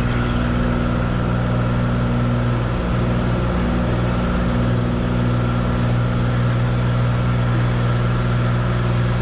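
Cessna 182 Skylane's piston engine and propeller running at full takeoff power: a steady, even drone during the takeoff roll.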